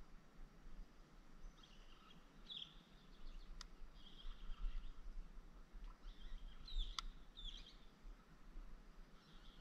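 Faint outdoor birdsong: several short chirping and warbling phrases from small birds, with two sharp clicks, one about three and a half seconds in and one about seven seconds in.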